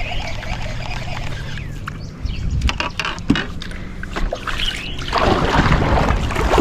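Water slapping and sloshing against a small fishing boat, with a few sharp knocks about midway and a louder rush of splashing water near the end.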